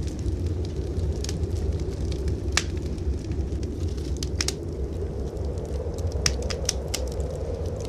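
Wood fire in a fireplace crackling, with scattered sharp pops, over a steady low rumble of blizzard wind.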